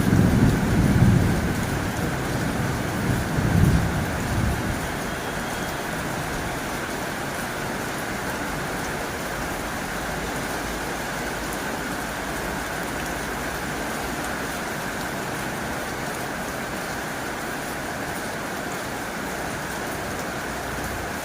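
Heavy rain drumming steadily on a tin roof. A low rumble swells over the first few seconds and dies away.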